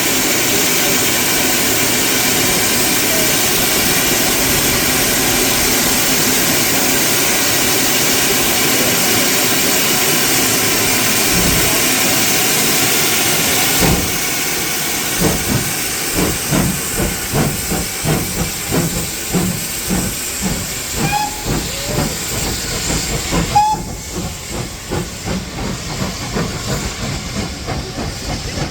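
Steam locomotive hissing loudly and steadily with escaping steam. About halfway through it sets off, its exhaust beating at nearly two a second under the hiss. The hiss cuts off suddenly a few seconds before the end, leaving the exhaust beats alone.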